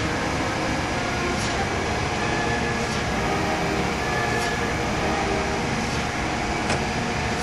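ACER Supra-1640AHD surface grinder running an automatic surface grinding cycle, its spindle motor and hydraulic table drive humming steadily. Faint clicks recur about every second and a half.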